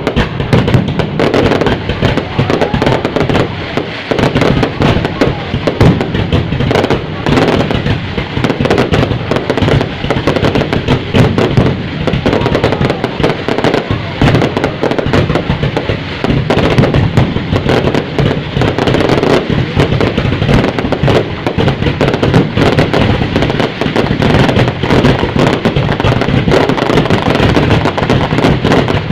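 Fireworks going off densely: many bangs and crackles overlapping without a break, loud throughout.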